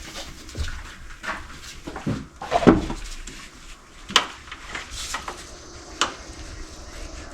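Scattered clicks, clinks and knocks of hands working with hose fittings and parts, the sharpest about four seconds in and again about six seconds in.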